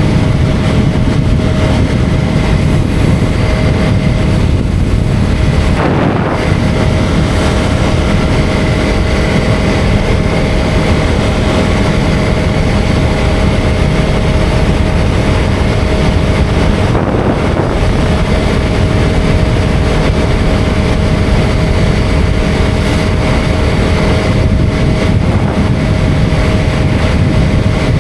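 KTM Duke 250's single-cylinder engine running steadily at cruising speed, mixed with wind buffeting on the microphone.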